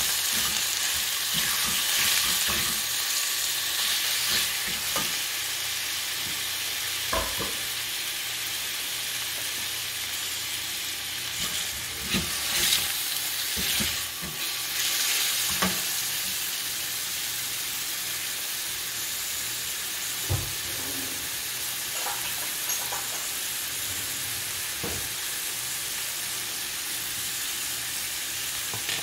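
Raw chicken cubes and garlic sizzling in hot oil in a stainless steel frying pan, a steady hiss that is strongest in the first few seconds. A silicone spatula stirring the pieces scrapes and knocks against the pan now and then.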